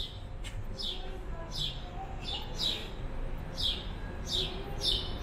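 A small bird chirping again and again: short, high notes that fall in pitch, about one a second, over a steady low background noise.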